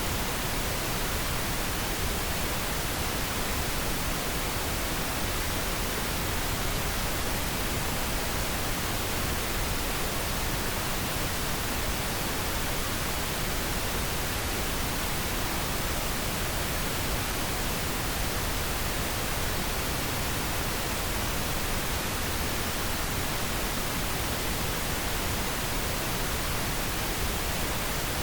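Steady pink noise: an even, unchanging hiss spread across the whole range of pitch, with no tones or breaks.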